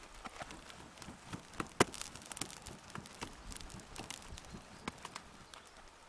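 Wood campfire crackling: irregular faint snaps and pops, one sharper pop about two seconds in.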